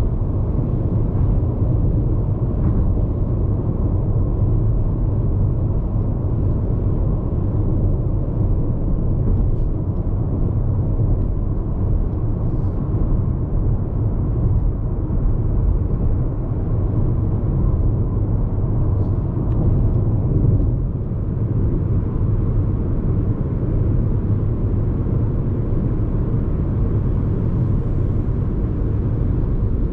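Steady low road-noise rumble heard inside the cabin of a Hyundai IONIQ 5 Lounge AWD electric car cruising on the highway, with no engine sound, only tyre and vibration noise.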